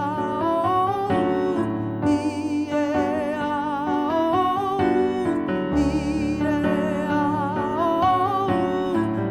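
A singer working through a vocal warm-up exercise, with vibrato, running up and down short scale phrases over piano chords. The pattern repeats, with the chords changing about every four seconds.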